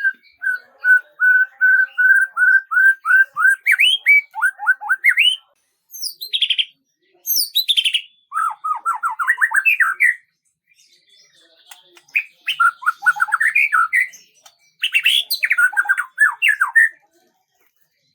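A songbird singing in several separate phrases with short pauses between them. The first phrase opens with a run of about ten even, repeated notes, then breaks into quick sweeping notes. The later phrases are fast trills of down-sweeping notes.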